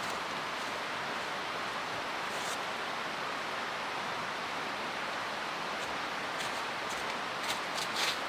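Steady rushing of a mountain stream, with a few faint footsteps or crunches near the middle and toward the end.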